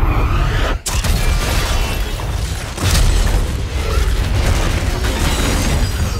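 Film sound effects of a giant robot crashing down: a sudden heavy impact about a second in and another big boom near three seconds, over a continuous deep rumble of metal and debris.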